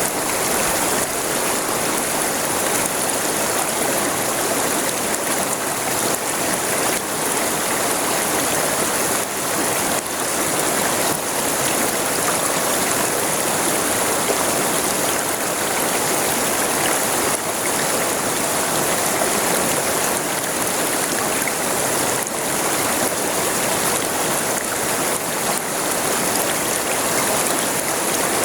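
River water flowing over rocks: a steady, dense rush and babble.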